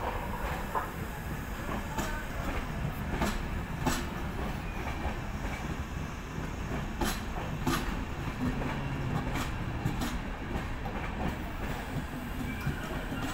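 Indian Railways passenger train rolling along the tracks: a steady low rumble with irregular, scattered clacks of wheels over rail joints.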